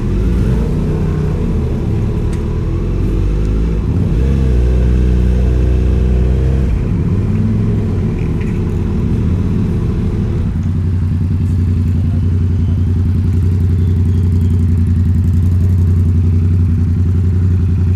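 Kawasaki Z900's inline-four engine through its exhaust. The revs shift up and down over the first several seconds, then settle to a steady idle from about ten seconds in.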